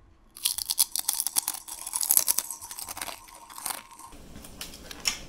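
Crispy fried chicken being bitten and chewed, a quick run of close crunches of the fried breading that thins out and gets fainter after about four seconds.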